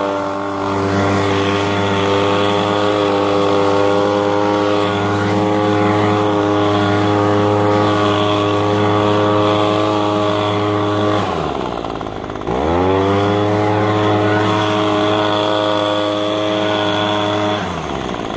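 Echo leaf blower's two-stroke engine running at high throttle, dropping to idle about 11 seconds in and revving straight back up, then dropping to idle again near the end. It runs and idles cleanly on a newly fitted replacement carburetor.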